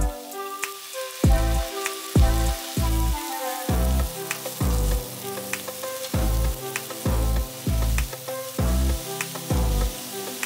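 Broccoli and sliced mushrooms sizzling as they stir-fry in a hot pan, under background music with a steady drum beat; the drum hits are the loudest sound.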